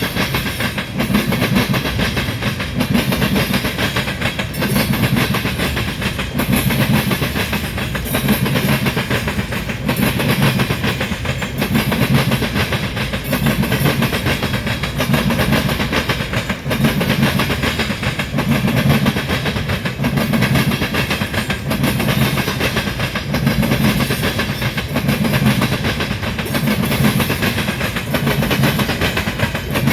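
Freight train of tank cars rolling past: a steady rumble of steel wheels on rail, with rhythmic clacks at the rail joints about once a second.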